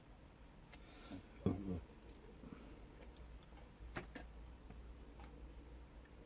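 Light, scattered plastic clicks and taps of a small radio-control toy tank being handled and turned over, with a soft bump about a second and a half in and the sharpest click about four seconds in.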